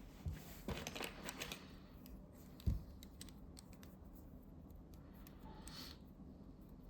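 Light plastic clicks and taps as a dental apex locator is handled and its tilting body adjusted, with one soft thump about two and a half seconds in and faint ticks after.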